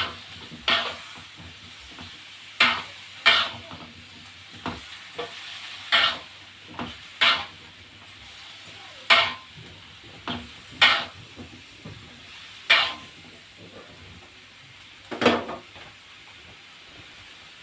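A spatula scraping and stirring food in a hot frying pan, about a dozen sharp, irregular strokes, over a steady sizzle of oil.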